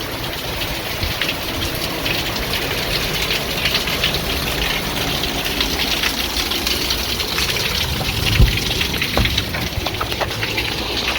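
Hurricane rain and wind blowing hard and steadily, with a dull thump about eight seconds in.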